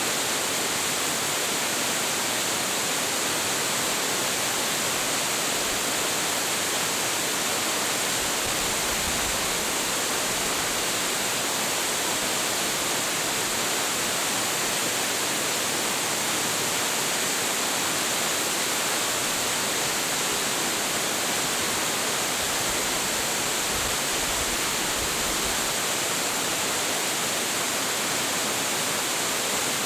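A 25.7 m waterfall with heavy flow, pouring steadily: an unbroken, even hiss of falling water, brightest in its high end, with no change or separate events.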